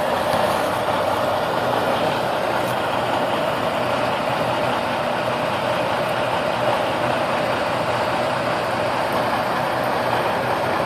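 Semi-truck diesel engine running steadily at low speed.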